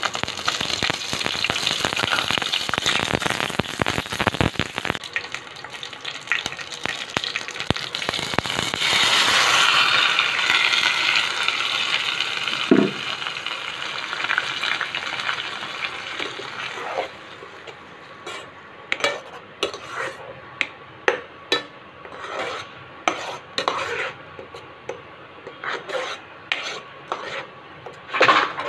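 Curry leaves crackling and sizzling as they hit hot oil in a frying pan, with the frying flaring up again around nine seconds in. As the sizzle dies down in the second half, a spoon stirs and scrapes the pan in repeated short strokes.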